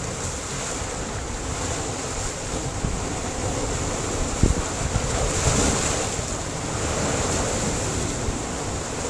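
Sea surf washing against a rocky shore, a continuous rush that swells about halfway through, with wind buffeting the microphone in short low thumps.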